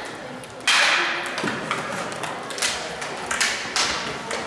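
Sharp knocks and thuds of dek hockey play: sticks striking the ball and the ball hitting the boards. The loudest comes about a second in and rings on briefly, with a few lighter knocks after it.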